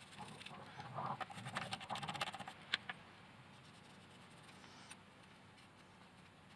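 Rapid scratchy scrubbing and scraping strokes as robot vacuum parts are cleaned by hand, ending in a single sharp click about three seconds in; after that only faint room tone.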